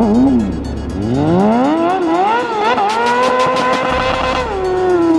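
Pit bike engine revving hard: a quick blip near the start, then climbing over about two seconds, held high for about a second and a half with a rapid ticking, and falling away near the end.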